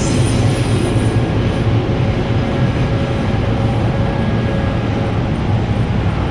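A train passing at close range: a loud, steady rumble of wheels on rail.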